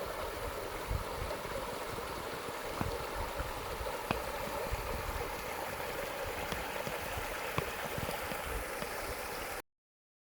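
Running water: a steady rushing hiss with some low rumble, cutting off suddenly about nine and a half seconds in.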